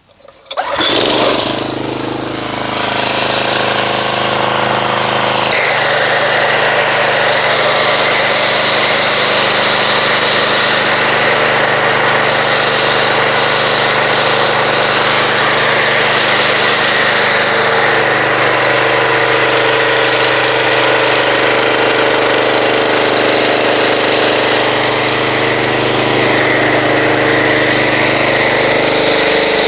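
A pressure washer starts about half a second in and runs loudly and steadily, with a spray hiss, as an MTM foam cannon lays car wash foam on the car. Its pitch shifts twice, at about five seconds and about eighteen seconds.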